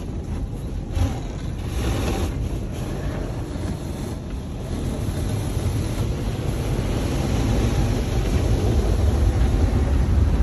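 Automatic car wash heard from inside the car cabin: a steady low rumble of the machinery with a hiss of water and foam spraying on the car, growing louder toward the end.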